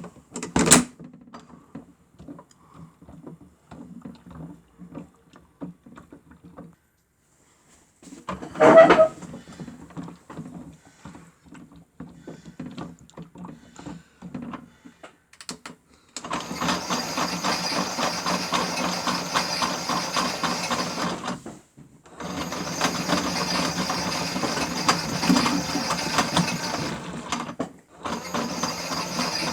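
Toy washing machine's small electric motor running the drum with a steady whirring rattle, stopping briefly twice and starting again, in the stop-and-go pattern of a wash tumble. Before that, about half the time, only faint irregular clicks and hum with a sharp click near the start and a brief louder clatter a few seconds later.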